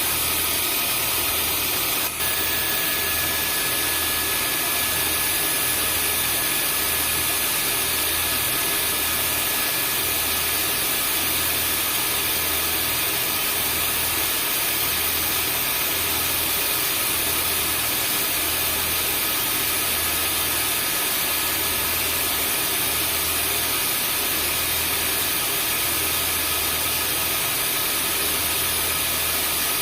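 Vacuum cleaner motor running steadily, a constant rushing hiss with a thin high whine. A second, fainter whine joins about two seconds in.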